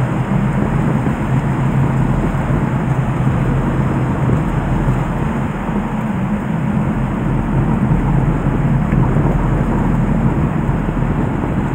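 The Nagara River in flood, swollen by a typhoon, its fast high water rushing with a loud, steady noise.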